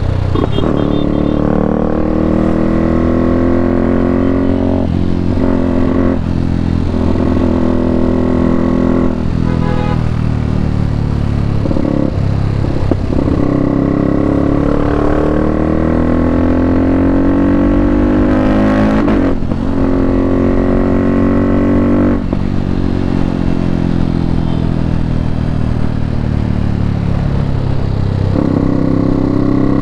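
KTM RC390's single-cylinder engine through a full Akrapovic exhaust, ridden hard: the engine note sweeps up and down in pitch, broken sharply about eight times as it changes gear.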